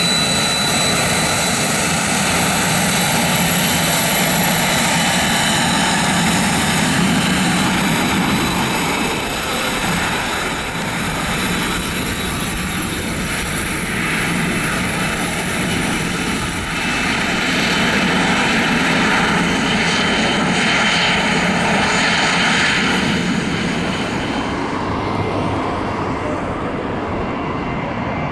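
Aircraft engine running loudly and steadily, a thin high whine over broad noise; the highest tones die away a few seconds before the end.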